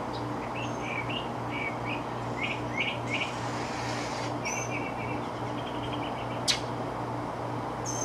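Birds chirping in short repeated notes, then a quick trill, over a steady low hum. A single sharp click about six and a half seconds in.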